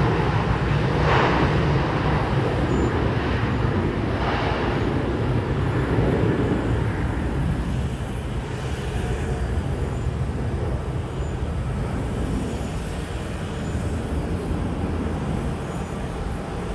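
Boeing 737-800's twin CFM56 turbofan engines, a continuous jet rumble with hiss that slowly fades as the aircraft moves away.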